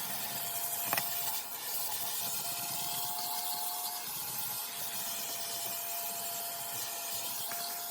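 Vacuum cleaner running steadily, its motor giving a constant whine over the rush of air, with a single click about a second in.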